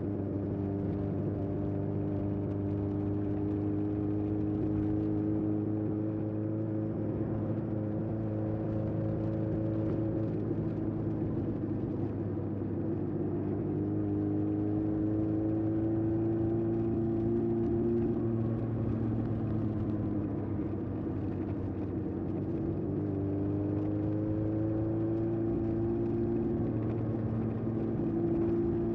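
Honda CB750F's air-cooled inline-four running through a period Yoshimura exhaust under way. The note is steady at first, climbs about halfway through, eases off, then climbs again near the end as the throttle opens.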